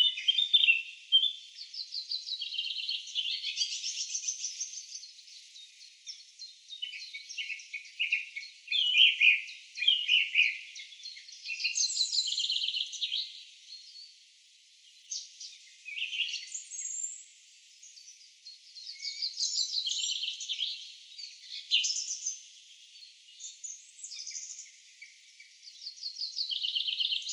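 Several songbirds singing: overlapping high-pitched trills and chirps come in bursts with short pauses between them.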